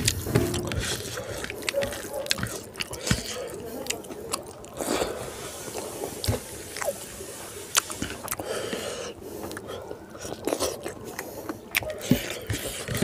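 Close-up chewing of a mouthful of rice and pork curry, with many short wet lip smacks and mouth clicks at an irregular pace.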